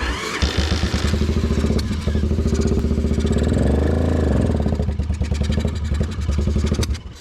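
Motorcycle engine being cranked on its electric starter for about seven seconds without starting, the pitch rising and falling once midway, then cutting off suddenly; the bike won't start.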